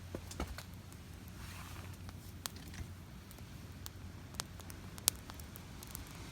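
Open wood campfire crackling, with a few scattered sharp pops, the loudest about five seconds in.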